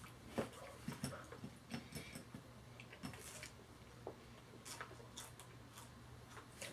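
Faint chewing and mouth sounds from eating, with scattered small irregular clicks over a low steady hum.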